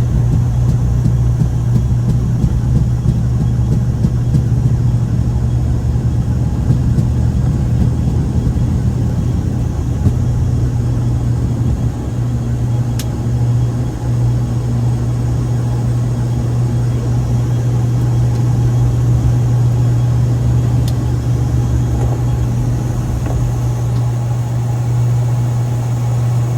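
Steady low drone of an aircraft in flight heard from inside the cockpit, even and unchanging, with a couple of faint clicks partway through.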